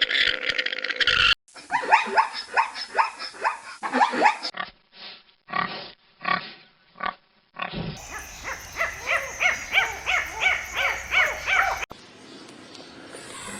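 Farm animals calling in several short recordings spliced back to back, each a run of quick repeated calls, some of them pigs squealing.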